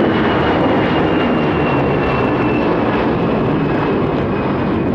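Jet airliner taking off: a loud, steady engine rumble with a high whine that slowly falls in pitch, easing off slightly near the end.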